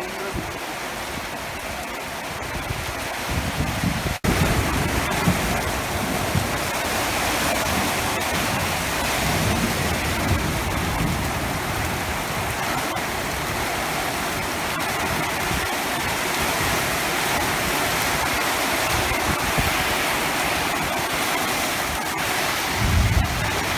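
Heavy rain pouring steadily as a dense hiss. A sudden brief drop-out about four seconds in, after which the rain is louder, with patches of low rumble.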